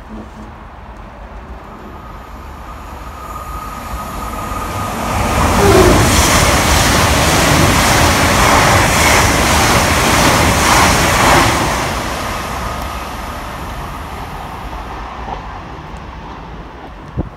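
Greater Anglia Class 720 Aventra electric multiple unit running through the station at speed without stopping. The rush of wheels on rail builds over a few seconds, stays loud for about six seconds as the train goes by, then fades away. A faint high whine is heard as it approaches and again as it draws away.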